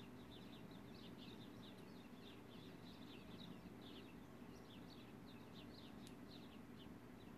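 Faint birdsong: small birds chirping, many short high chirps that slide downward in pitch, a few every second, steady throughout.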